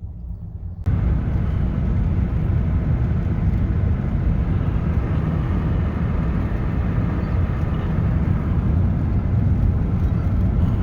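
Steady rumble of a car on the move: road and wind noise, heaviest in the low range, cutting in suddenly about a second in.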